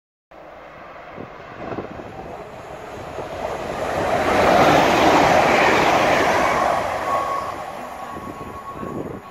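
Hitachi Class 385 electric multiple unit passing at speed: the rush of its wheels on the rails swells to a peak about halfway through, then fades as it draws away. A thin steady whine sounds near the end.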